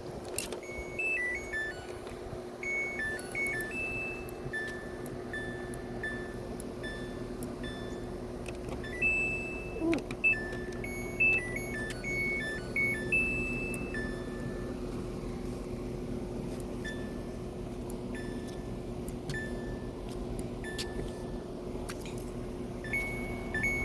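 Washing machine's electronic control panel playing a short beeping tune, repeated a few seconds later, then single beeps about once a second, over a steady hum from the machine.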